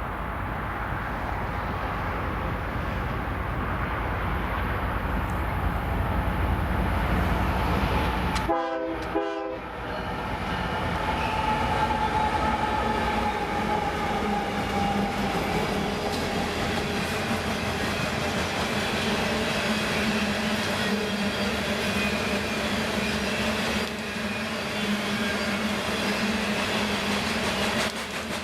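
Diesel freight train passing with a steady rumble and rail noise. The locomotive horn sounds as a held chord of several tones that slowly drops in pitch.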